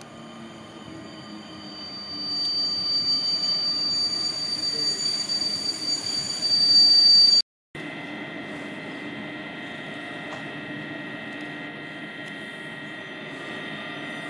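Newag Griffin EU160 electric locomotive and its passenger coaches running into the station, with a steady high-pitched squeal that grows louder as the train nears and brakes. After an abrupt cut the train is heard further off: quieter, even running with a high whine.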